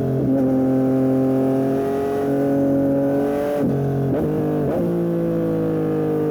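Yamaha MT-09 SP's 890 cc inline-three engine through a Dominator aftermarket exhaust, heard on a hard ride. It pulls with a slowly rising pitch for about three and a half seconds, gives a few quick pitch jumps as it shifts or blips, then winds down with a slowly falling pitch.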